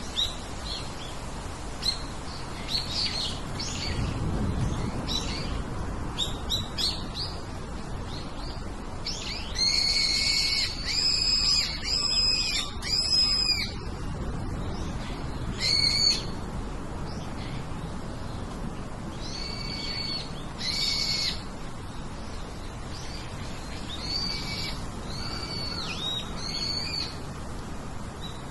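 Birds calling: repeated clear, slightly arched whistled notes in bouts, with the loudest run of about five notes near the middle and scattered shorter chirps around them.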